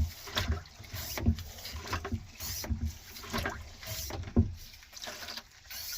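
Hand-operated transfer pump being worked in strokes about twice a second, dirty water sloshing and splashing out as it drains the sailboat's black water tank into a bucket.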